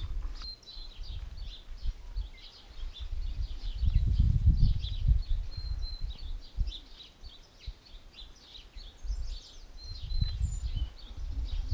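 Small birds chirping repeatedly, with low rumbles of noise swelling about four seconds in and again near ten seconds.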